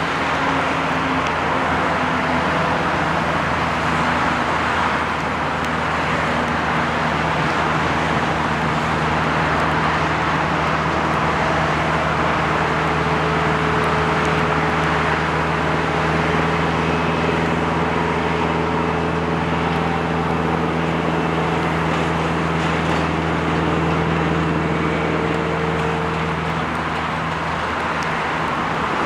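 Airbus A380 jet noise during landing: a steady rush with a low drone and a few held hums that shift slightly in pitch.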